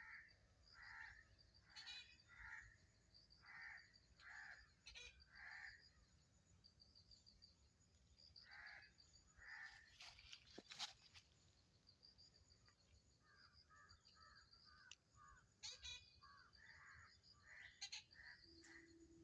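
Rufous treepie giving a series of short, harsh crow-like calls in several bouts, faint, with high thin chirps of other small birds behind.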